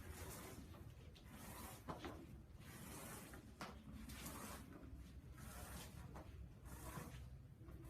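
Faint scraping strokes, roughly one a second, with a few light knocks, as vinyl flooring and its foam underlay are worked by hand.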